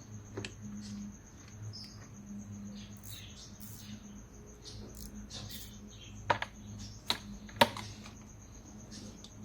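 Small metallic clicks and taps of a spanner working at a bolt in the engine bay, with three sharper clinks in the second half, over a low steady hum.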